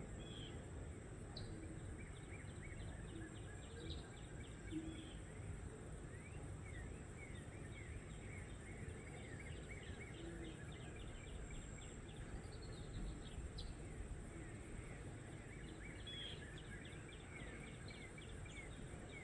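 Several small birds singing in trees, a steady stream of short chirps and quick runs of repeated sliding notes, over a constant low background rumble and a thin steady high hiss.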